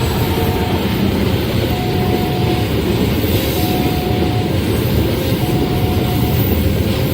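A long train rolls steadily past at a level crossing with a loud, continuous rumble of wheels and wagons. Over it, the crossing's electronic warning alarm repeats a two-pitch tone about every second and a half.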